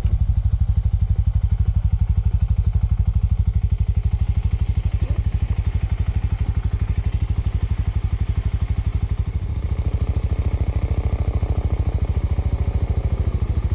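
Small single motorcycle engine running steadily close by, a fast, even low exhaust pulse with no change in pace.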